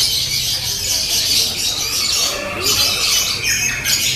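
Several lovebirds singing at once in a loud, continuous, high-pitched chattering trill.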